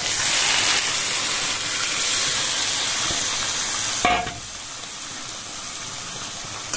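Marinated chicken pieces sizzling loudly in hot oil and fried onions as they are tipped into the pan. About four seconds in there is a single knock, and after it the sizzle goes on more quietly.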